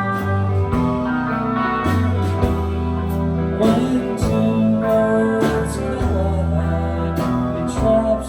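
A rock band playing a song live: guitar chords over held bass notes, with drum and cymbal hits.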